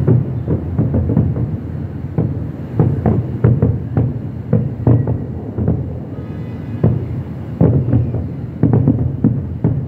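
A fireworks barrage going off: irregular booms and bangs, a few a second.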